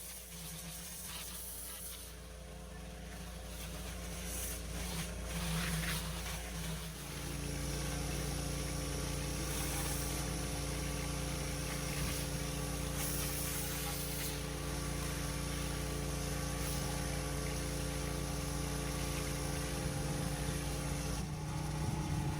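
Petrol pressure washer engine running steadily under a hiss of water spray, louder from about seven seconds in.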